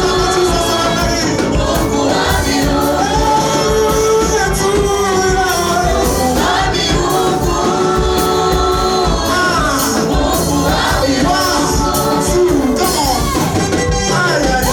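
A group singing praise music with a band accompaniment and a steady beat.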